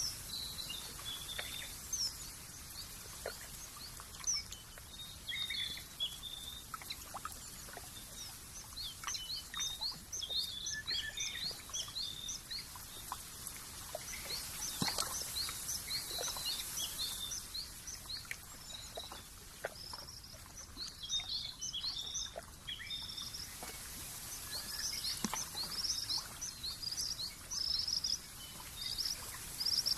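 Many small birds chirping and twittering in clusters of quick high notes over a steady high hiss, with scattered faint ticks.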